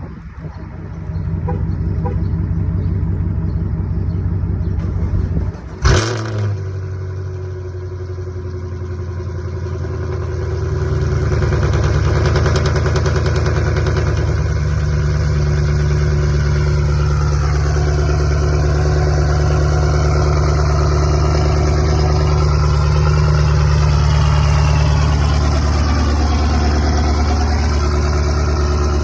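Chevrolet Camaro SS V8 on E85 cold-starting and running at a fast cold idle. A brief loud thump about six seconds in, after which the idle settles and rises in level, then holds steady.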